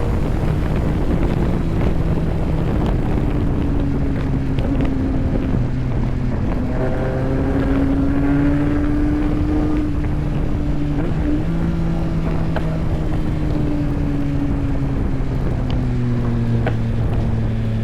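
Yamaha MT-09's three-cylinder engine running at a steady cruise, its pitch drifting slowly up and down, with wind buffeting the microphone.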